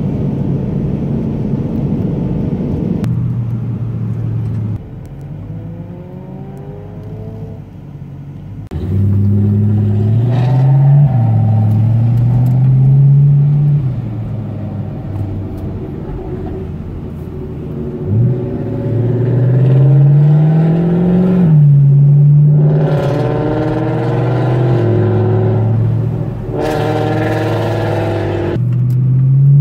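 Car engine pulling hard through the gears. Its pitch climbs and falls back at each upshift, several times over, after a quieter stretch that ends about nine seconds in.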